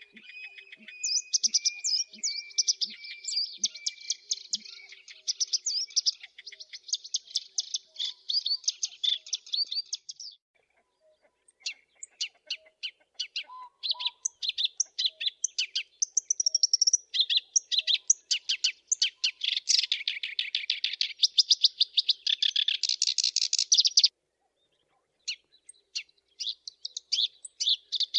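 Black-browed reed warbler singing: long runs of rapid, high chattering notes, broken by a short pause about ten seconds in and another near the end.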